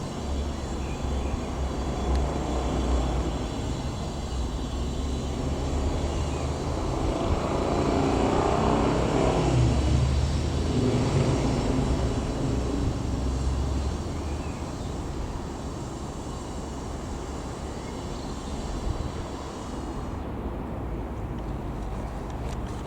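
Mooney M20J single-piston-engine light aircraft flying past overhead. The engine and propeller drone grows louder to a peak a little under halfway through and then fades away, over a steady rumble of wind on the microphone.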